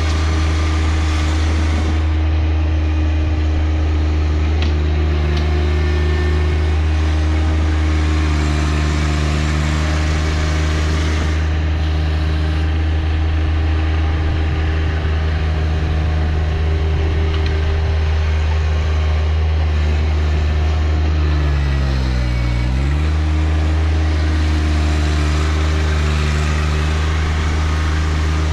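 A John Deere 1025R compact tractor's three-cylinder diesel engine running steadily at working speed while the backhoe is used. Near the end its pitch dips briefly and comes back up.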